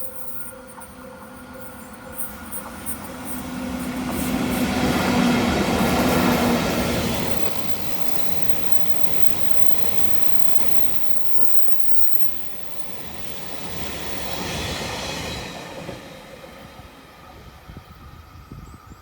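A train passing close by on the rails: the noise swells to its loudest about five to six seconds in, carrying a steady hum that stops about seven seconds in, then eases off and swells again briefly around fifteen seconds in before fading.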